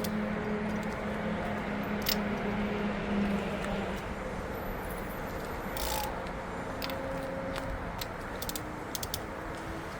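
A few sparse metal clicks and clinks of hand tools working on an engine's head bolts, over steady background noise with a low hum in the first few seconds.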